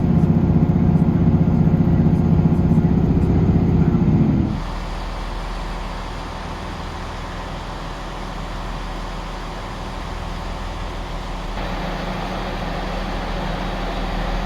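Diesel train engine running with a loud steady drone. About four and a half seconds in it drops abruptly to a quieter steady rumble and hiss, which brightens slightly near the end.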